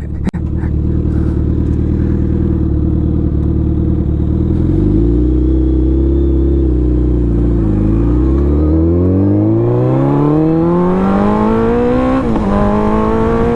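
Suzuki Hayabusa's inline-four engine, loud, running steadily at first, then accelerating hard. After a brief rise and dip about halfway, its pitch climbs steadily for several seconds, drops suddenly at a gear change near the end, and starts climbing again.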